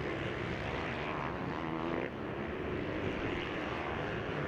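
Motocross bike engines running on the track, their notes rising and falling as the riders work the throttle; one engine note drops away about two seconds in.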